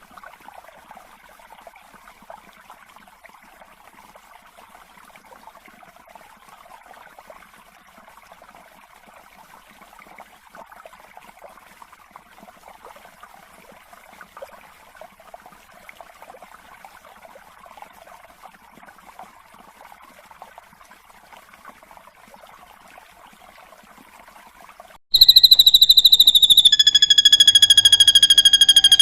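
Recorded birdsong: a faint, dense chattering chorus, then about 25 seconds in a loud, sustained high whistle that steps slightly down in pitch and holds.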